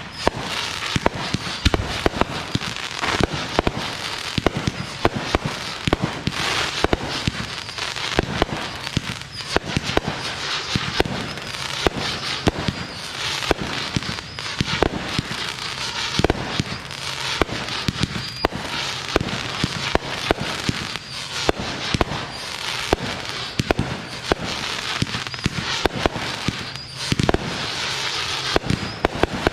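Fireworks going off: a dense, continuous crackling with many sharp pops on top.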